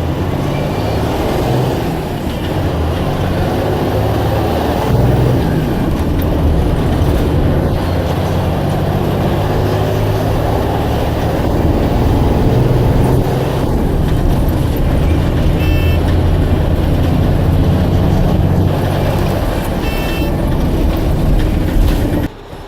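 Blue Bird All American bus's diesel engine running steadily and loudly, with a couple of short high squeaks or beeps near the end.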